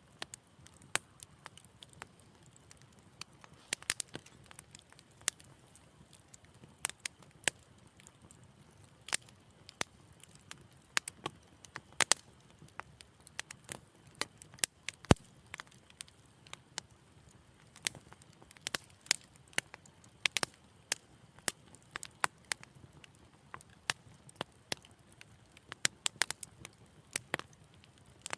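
Wood fire in a fireplace crackling: irregular sharp pops and snaps, sometimes several in quick succession, over a faint low hiss, with one louder pop about halfway through.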